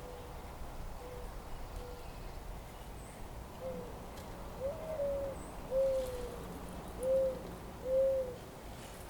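A bird calling a series of short, low, pitched notes, each rising and then falling, about one a second. The calls are faint at first and grow clearly louder in the second half, over a steady low background rumble.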